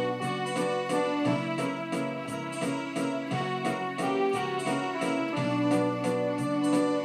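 Supra SKB-615S home synthesizer playing a folk-song melody in a piano-like voice, with a steady rhythmic beat under it.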